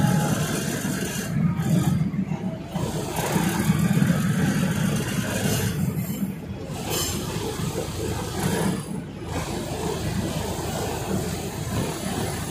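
Diesel railcar running along the track, heard from an open window: a steady engine drone under the noise of the wheels on the rails.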